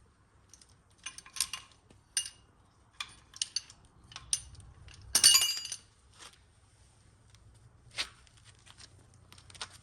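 Metal parts clinking and clattering as they are handled, a string of separate clinks with one louder, ringing clatter about five seconds in.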